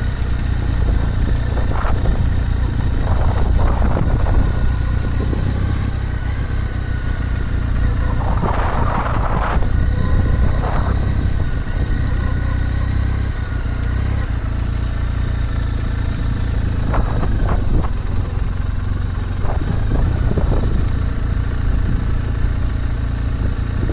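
Motorcycle engine running steadily, with a few short bursts of noise over it, the loudest about nine seconds in.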